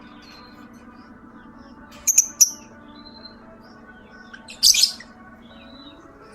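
Lovebirds giving shrill, sharp chirps in short bursts: a quick cluster of about three around two seconds in and a longer burst near five seconds, over a steady low hum.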